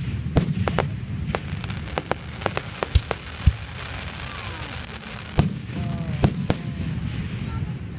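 Fireworks exploding in an irregular string of sharp bangs and pops over a continuous low rumble, with the heaviest reports about half a second in, near the middle, and twice in the last few seconds.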